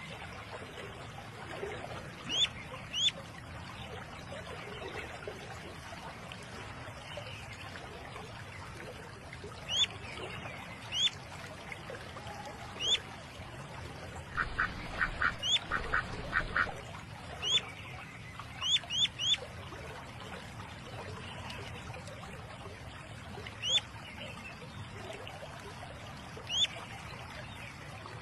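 Wild ducks calling: short, high rising calls scattered singly and in pairs, with a quick run of about seven calls about halfway through, over a steady hiss.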